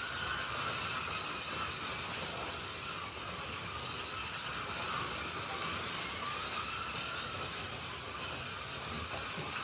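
Electric motors of several Slot.it slot cars whining as they lap the track, their pitch rising and falling as the cars speed up and slow down, over a steady rolling hiss.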